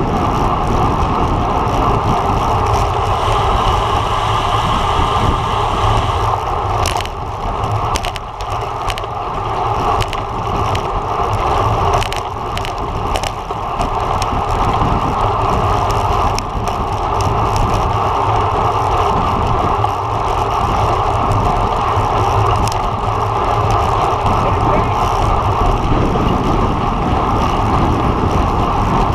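Steady wind rush and road rumble from a road bike ridden at speed, heard on a bike- or rider-mounted camera, with a few short clicks in the middle.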